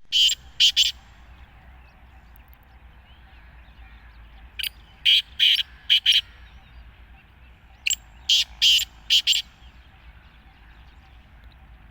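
Black francolin calling: three bursts of short, harsh, scratchy notes, the first of three notes, then about five, then about six, separated by pauses of a few seconds.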